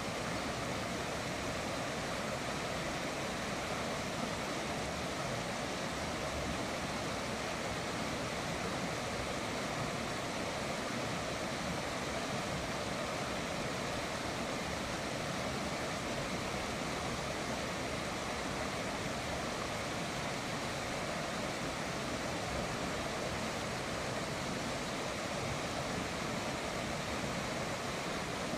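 River water flowing and rushing: a steady, even wash of noise.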